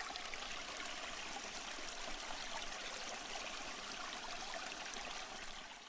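Small stream flowing and trickling over rocks, a steady even babble of water that begins to fade out near the end.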